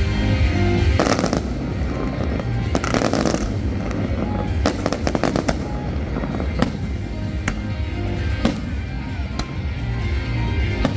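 Fireworks going off over loud music with a heavy bass beat. Broad booming bursts come about one and three seconds in, a quick run of crackles about five seconds in, then single sharp bangs every second or so.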